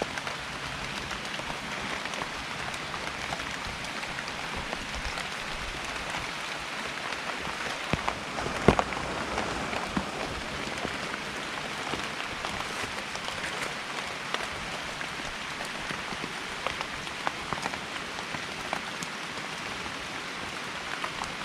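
Steady rain falling, with scattered louder drops tapping close by and one sharp tap about nine seconds in.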